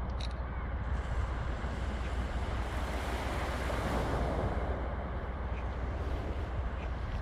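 Wind blowing steadily across the microphone, a deep rumbling buffet, over the broad rush of sea surf.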